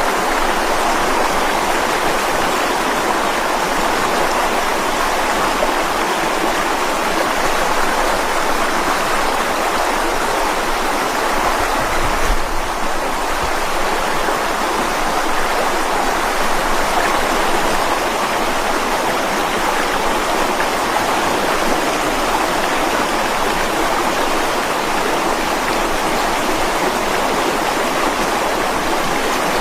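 Mountain stream rushing steadily over rocks, an even hiss of moving water, with a brief low bump about twelve seconds in.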